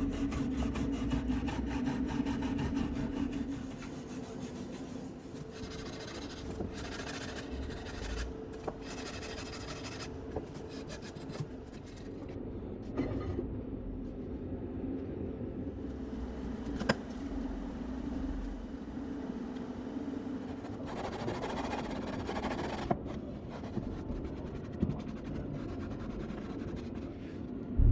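Irregular scraping and rubbing from hand work on the grinder's parts, over a steady low hum that is stronger for the first few seconds. A few sharp clicks are heard, and a louder stretch of scraping comes about three quarters of the way through.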